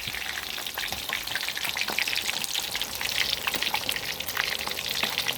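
Giant gourami deep-frying in hot oil: a steady sizzle with many small crackles and pops.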